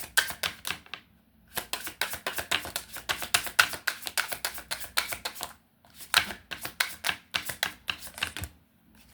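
Tarot cards being shuffled by hand: a rapid patter of card-on-card clicks, several a second, in three runs with short breaks between them.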